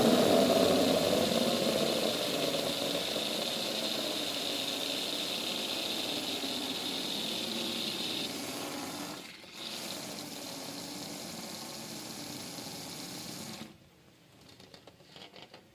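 Water running steadily into a bucket, its level easing off as the bucket fills, with a brief break about nine seconds in before it shuts off suddenly near the end.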